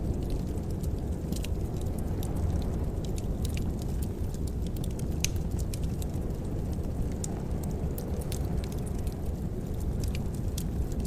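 Wood fire burning in a fireplace: a steady low roar with scattered small crackles and pops.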